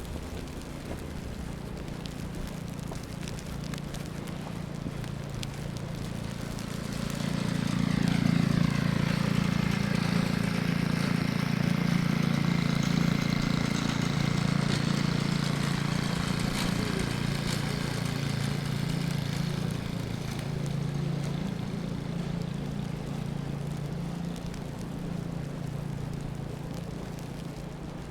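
A large vehicle's engine running amid street traffic: a steady low hum that swells about seven seconds in, stays strong for several seconds, then slowly fades.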